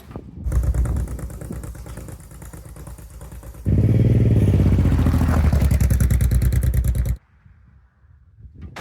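An engine running with a rapid, even pulse. It gets much louder about four seconds in, then cuts off abruptly near the end.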